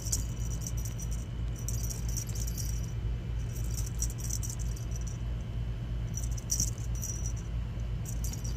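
Short bursts of light jingling rattle, about one every second or two, over a steady low rumble.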